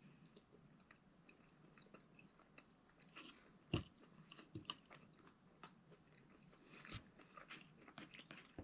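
Faint close-up chewing of a mouthful of beef chunks in tomato sauce: soft wet mouth clicks, with one sharper click a little under four seconds in. Near the end a spoon scrapes a plate.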